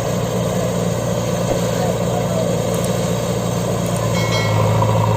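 Heavy diesel engine running steadily, getting slightly louder about four seconds in.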